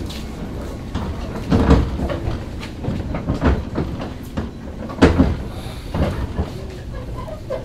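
Train sounds at a station platform: a steady low rumble with four heavy clunks spaced roughly evenly, about one every one and a half to two seconds.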